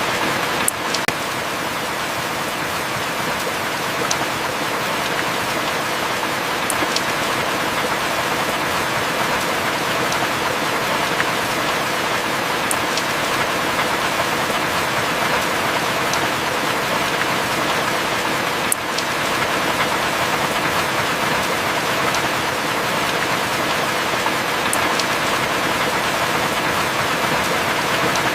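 Heavy rain falling steadily, an even hiss with a few sharp single drop ticks scattered through it.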